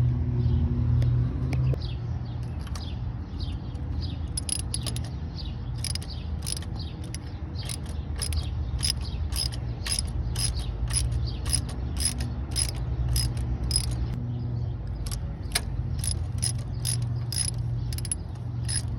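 Ratchet wrench clicking as the coolant temperature sensor is unscrewed: a steady run of sharp clicks about twice a second, starting about four seconds in, over a low steady hum.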